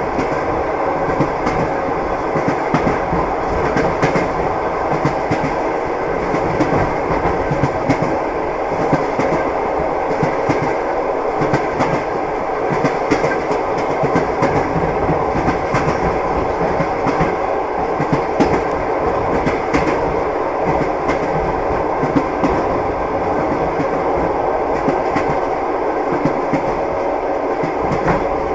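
Train running steadily on rails: a continuous rumble with the wheels knocking and clicking over the rail joints.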